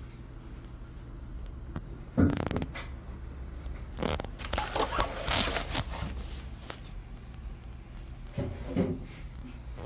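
Objects being handled: a sharp knock about two seconds in, then a stretch of clattering and rustling, and another short clatter near the end, over a steady low hum.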